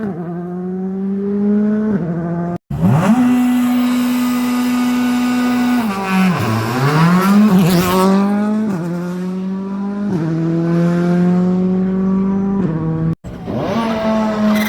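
Rally car engines at high revs, the pitch held steady for stretches. Around the middle the revs fall and climb back several times in quick succession, as on downshifts with throttle blips. The sound cuts off abruptly twice between separate passes.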